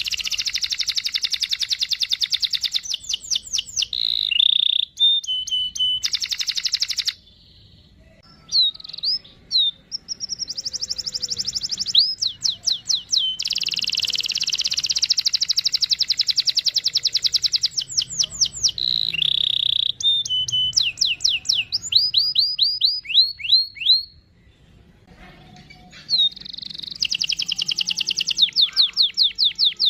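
Domestic canary singing long rolling trills of rapid, high repeated notes, with chirps between the rolls; the song breaks off briefly twice.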